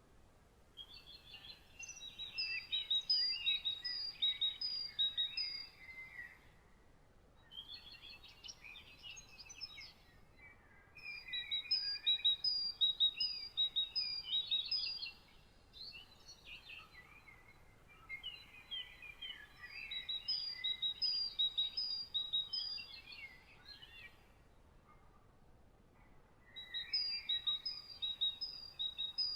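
Songbird singing in long phrases of rapid, varied chirps and trills, about five phrases of a few seconds each with short pauses between, over a faint steady background hiss.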